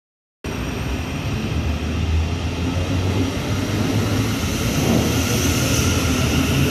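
South Western Railway electric multiple unit running past along the platform at close range: a steady low rumble with wheel-on-rail hiss that cuts in about half a second in and grows a little louder near the end.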